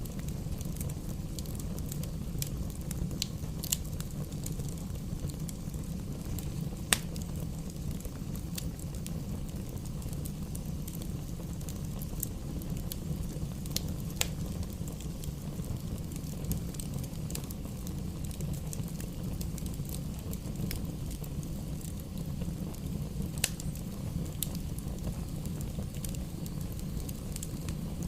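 Campfire burning: a steady low rumble of the flames with irregular sharp crackles and pops from the wood, a few of them louder.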